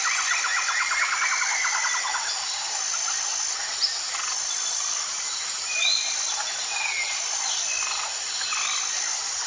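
Wild birds singing and calling outdoors. A rapid trill runs through the first two seconds, then scattered short chirps and whistles, over a steady background of high insect-like buzzing.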